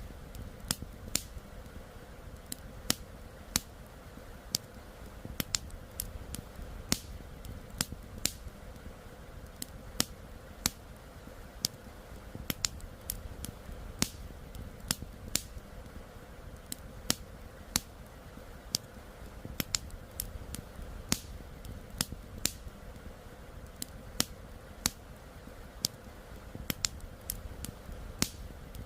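Campfire crackling: irregular sharp pops and snaps, several a second, over a steady low rushing background.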